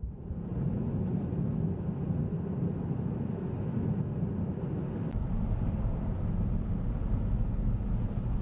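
Car driving on a winter road: a steady rumble of road and engine noise, its low end growing stronger about five seconds in.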